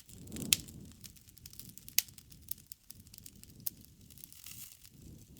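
Campfire burning: irregular sharp crackles and pops, two of them louder, over a soft low rumble of the flames.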